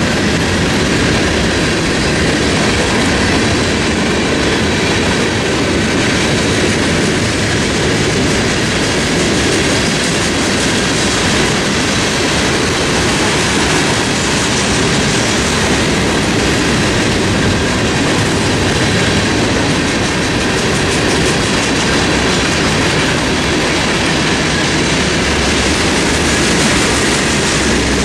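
Freight train cars rolling steadily past on the track: a continuous loud rumble and clatter of steel wheels on rail.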